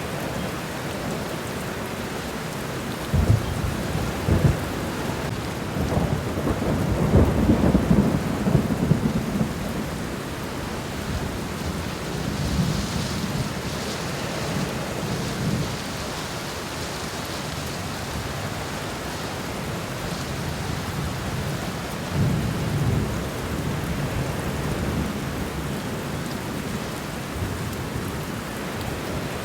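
Steady rain falling on a garden, with low rolls of thunder from about three to ten seconds in, loudest around eight seconds, and another roll a little past twenty seconds.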